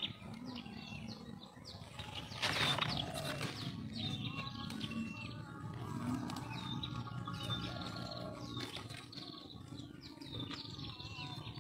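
Small birds chirping repeatedly: short, high chirps that dip in pitch, one after another. A brief burst of noise about two and a half seconds in is the loudest moment.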